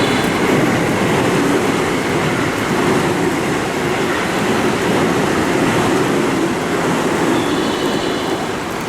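Electric train running along the platform at a JR West station: a steady, loud rumble of wheels and motors, with brief high-pitched tones right at the start and again near the end.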